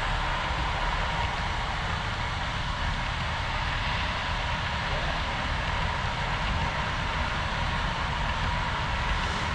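HO scale model train running on the layout: a steady whir and rumble of the wheels on the track that does not let up.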